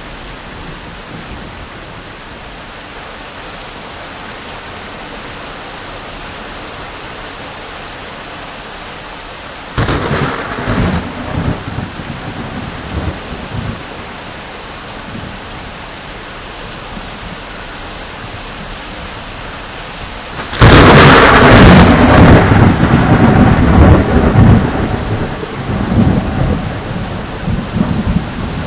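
Steady rain with two nearby thunderclaps. About ten seconds in comes a sudden crack that rumbles off over a few seconds; about twenty seconds in comes a much louder crack followed by long, rolling low rumble.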